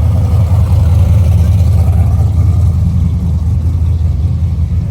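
A car engine running steadily with a deep, even rumble.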